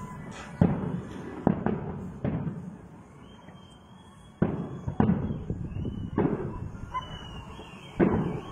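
Aerial firework shells bursting in a display: about eight sharp bangs, each trailing off in a rumble, with a pause around three to four seconds in before the bursts resume.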